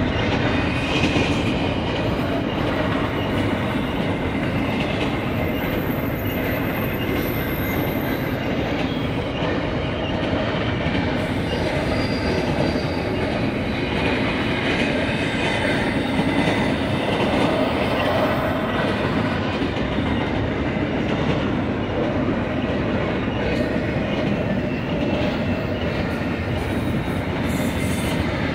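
Loaded double-stack container well cars of a BNSF freight train rolling past: a steady, loud rumble and clatter of steel wheels on the rails, with thin high wheel squeals now and then.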